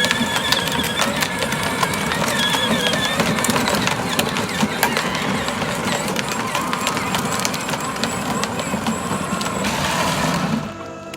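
Kid's battery-powered ride-on toy Jeep driving, its electric motor and wheels making a steady rumbling whir with many small clicks and rattles. It cuts off sharply near the end, where music begins.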